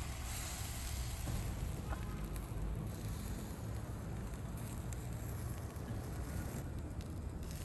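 Charcoal fire burning in a small folding fire pit, with faint crackles over a steady low rumble.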